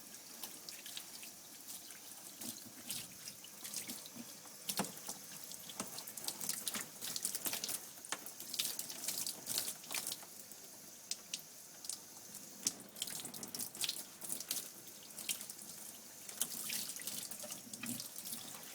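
Running water from a bath shower hose spraying onto a dog's wet coat, a steady hiss broken by irregular splashes and drips.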